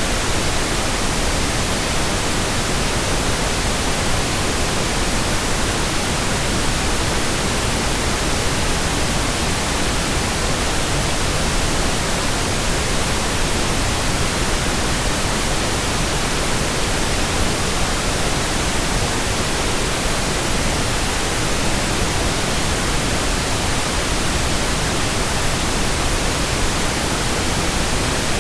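Steady electronically generated white noise, an even hiss across all pitches with no changes or events.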